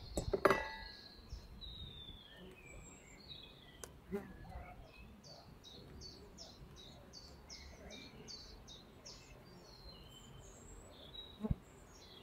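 Birds singing, one bird repeating a short high note about three times a second for several seconds, over a quiet outdoor background. A brief rustle of cloth at the start and a single sharp knock near the end.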